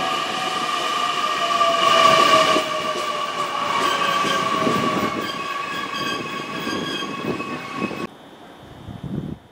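Electric multiple-unit train pulling out of a station and running away along the platform. A steady high motor whine and a second tone that slowly falls sound over the rumble of the wheels on the rails. The sound drops off abruptly about eight seconds in.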